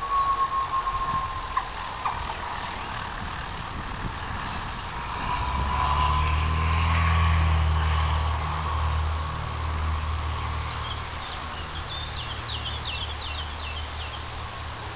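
Small propeller plane's piston engine running at full power, its low drone and high propeller whine swelling to a peak about seven seconds in and then slowly easing. Rough wind buffeting comes early on, and faint high chirps come near the end.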